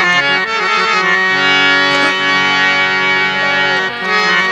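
Harmonium playing the instrumental introduction to a Bundeli folk song: held chords with a melody moving over them.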